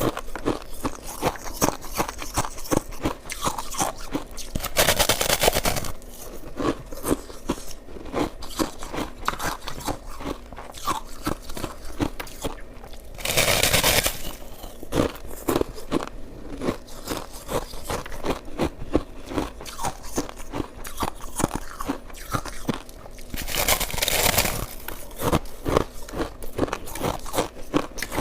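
Close-up crunching of shaved ice being chewed: a dense run of short, crisp crunches. Three longer, louder crunches come about five seconds in, around halfway and near the end.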